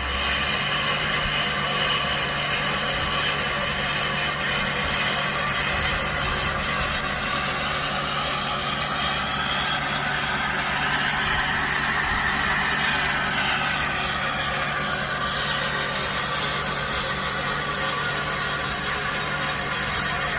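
Ford 7.3 Power Stroke V8 turbodiesel idling just after a cold start, with a steady low running note under a high, jet-like whistling whine, the "airplane ready for take off" sound. The whine's pitch swells and bends about halfway through.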